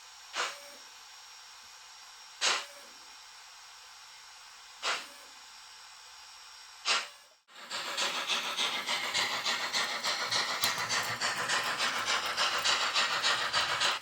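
ESU H0 model steam locomotive's sound and smoke unit: short steam-hiss puffs about every two seconds over a steady faint whine from the smoke fans, which the owner says make strange noises. About halfway through it cuts out briefly and gives way to a much louder, continuous hissing with a rapid flutter.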